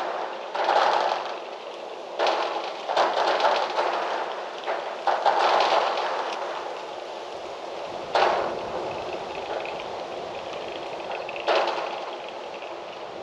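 Wind blowing in gusts, each gust starting suddenly and dying away, with rustling and crackling among them; about six gusts.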